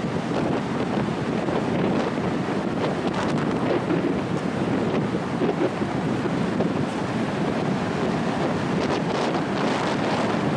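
Loud sea wind buffeting the microphone, a steady rushing noise over ocean surf washing on the beach.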